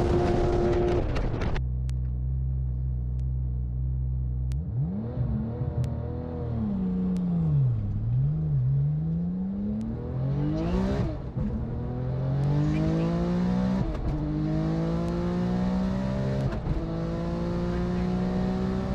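Race car engine idling briefly, then revved up and down, then pulled hard through the gears in a standing-start run. The pitch climbs steadily in each gear and drops sharply at three upshifts.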